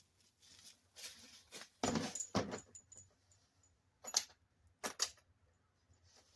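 Metal tools being handled and set down: two dull knocks about two seconds in, then a few sharp metallic clinks around four and five seconds.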